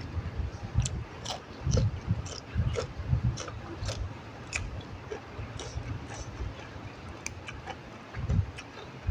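Close-up eating of raw yardlong beans: crisp, irregular crunches as the beans are bitten and chewed, with wet mouth sounds and low smacking.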